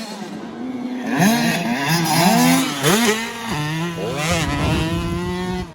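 Dirt bike engine revving hard, its pitch climbing and falling several times as it runs up through the gears, then holding a steady note for the last couple of seconds.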